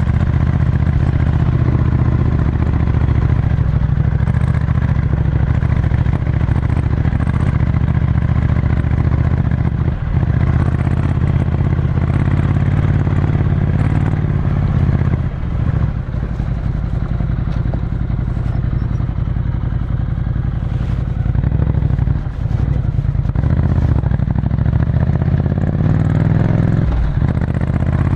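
Ducati Scrambler Desert Sled's 803 cc air-cooled L-twin running hard through a full Termignoni exhaust, heard from onboard. The engine note dips briefly four times, with some clattering and clicking over it.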